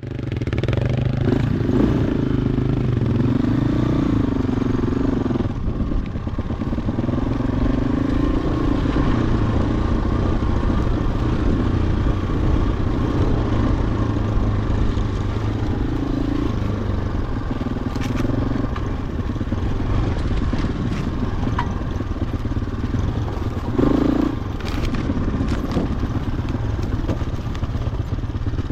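2007 Husqvarna TE-450's single-cylinder four-stroke engine running on a trail ride, its revs rising and falling as the throttle is worked, with a few short knocks along the way.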